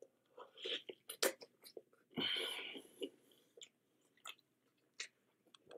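A person biting into and chewing a gravy-dipped KFC Double Down fried-chicken sandwich: quiet, scattered mouth clicks and smacks, with one longer, louder burst about two seconds in.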